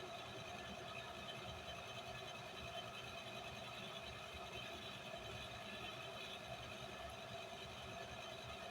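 Blacksmith's forge running with a steady, even rushing hum; no hammer blows.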